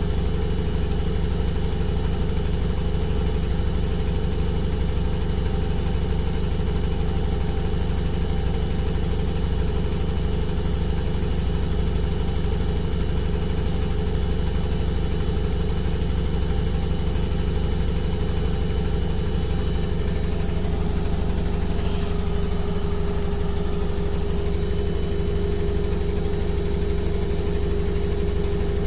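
Washing machine running with a steady low hum, no pauses or knocks. A steady tone in the hum shifts slightly about two-thirds of the way through.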